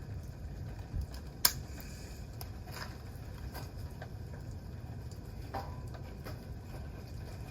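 Wood campfire crackling: scattered snaps and pops over a low steady rumble, with one sharp, loud pop about a second and a half in.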